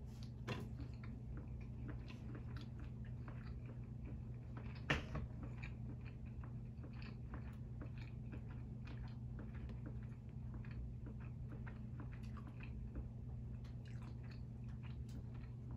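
Close-miked biting and chewing of a shrimp cheeseburger in a soft bun: a run of small wet mouth clicks and soft crunches, with one louder click about five seconds in. A steady low hum underneath.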